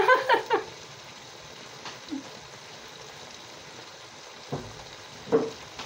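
Steady low sizzle of potatoes and carrot frying in a pot. A brief voice sound comes right at the start, then a short knock and another brief voice sound near the end.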